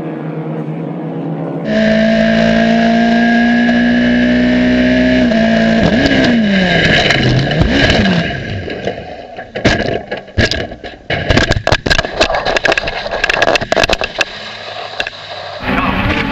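Race car engine running hard at steady high revs, its pitch falling and wavering about five seconds in. Then comes a long run of bangs, scraping and clattering as the car crashes.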